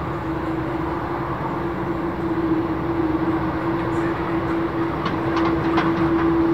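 Boeing C-17 Globemaster jet engines running with a steady drone and a constant hum-like tone, growing a little louder.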